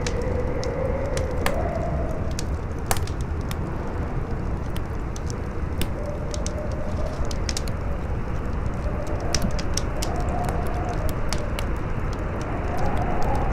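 Campfire crackling, with many sharp pops and snaps, over strong wind that howls in a wavering tone rising and falling in pitch.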